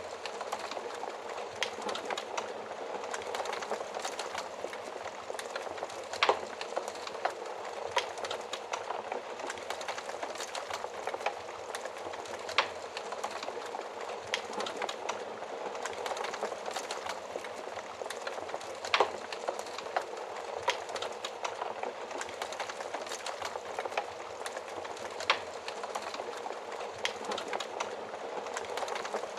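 Wood fire burning in an oven-style fireplace: a steady hiss of flames with irregular sharp crackles and pops, a few louder snaps standing out now and then.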